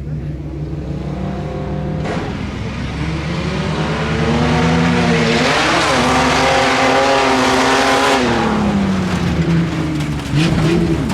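Modified 4x4 pickup's engine revving hard as it takes off on a dirt tuff truck course. The pitch climbs over a couple of seconds and holds at full throttle under a rush of tyre and dirt noise, then drops about eight seconds in as the throttle comes off.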